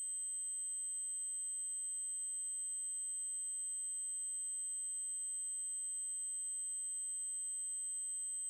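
Synthesized 8192 Hz triangle-wave tone: a single very high-pitched, perfectly steady electronic tone that does not change.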